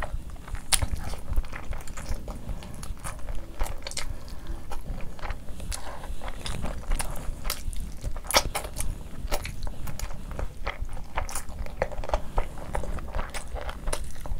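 Close-miked eating sounds: wet chewing and lip-smacking with many sharp mouth clicks, as curry-soaked rice and mutton on the bone are bitten and chewed.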